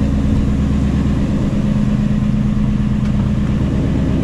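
Straight-piped 2016 Ford Mustang Shelby GT350's 5.2-litre flat-plane-crank V8, with long-tube headers, running at a steady engine speed: an even, deep drone that holds its pitch, with no revving.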